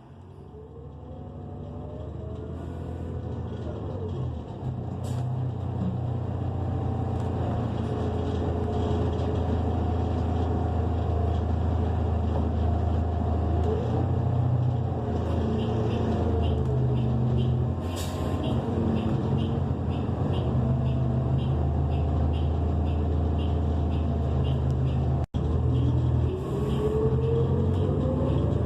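New Flyer XN40 city bus heard on board: its Cummins Westport ISL G natural-gas engine and Allison B400R automatic transmission pulling away and cruising, with a rising whine through the gears near the start and again near the end. A steady ticking, about twice a second, runs through the second half.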